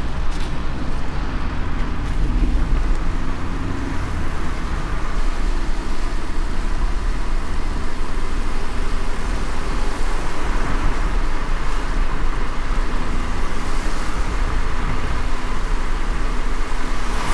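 A car driving in light rain: a steady low road-and-engine rumble with an even hiss of rain and wet road above it, and a brief brighter swell of hiss near the end.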